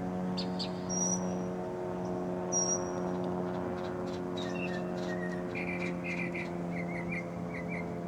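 Birds chirping: a few short, high whistled notes that slide down in pitch, then a run of quick chirps in the second half. Under them runs a steady machine hum.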